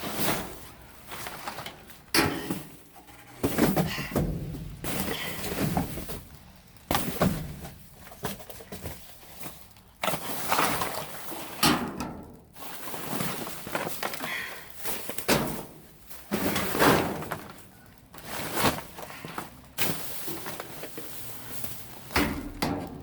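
Rummaging through trash in a dumpster: rustling bags and packaging, with repeated sharp thunks and knocks as items are shifted and dropped.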